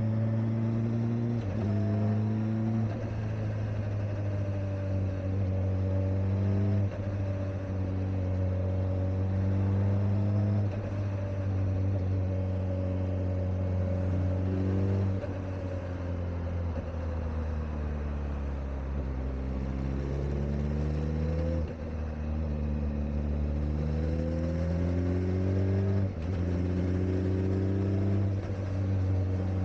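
Kawasaki Ninja ZX-4RR's 399 cc inline-four engine under way, its pitch climbing and falling through gear changes and easing off in the middle. It is kept to low revs because the bike is still being run in.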